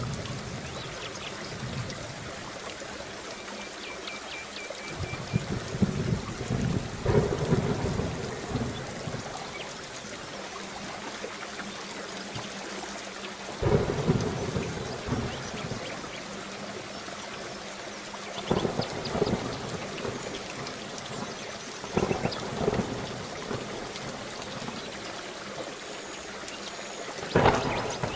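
Steady heavy rain with thunder rumbling in several times, the last a sharp, loud clap near the end.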